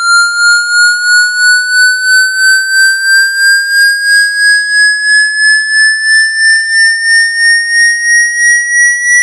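Synthesized water-eject tone: a single electronic tone slowly rising in pitch, pulsing in loudness about three times a second.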